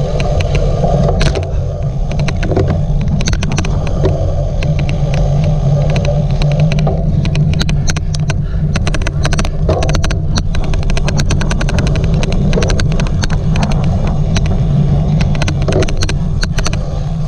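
Steady low rumble of wind and riding noise on a cyclocross bike, overlaid by many sharp, irregular clicks in quick runs, thickest through the middle: an odd clicking noise.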